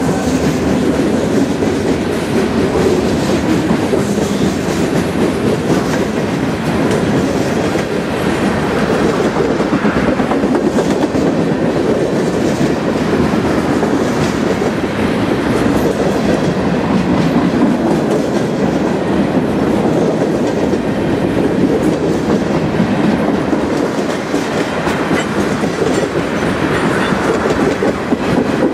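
Freight cars of a passing mixed freight train, boxcars and tank cars, rolling by close at hand: a steady loud rumble with wheels clicking and clacking over the rail joints.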